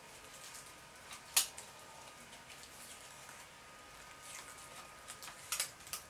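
Sticky tape being unwound from the roll and wrapped around a craft stick: faint crackles and ticks, with a sharper crackle about a second and a half in and a couple more near the end.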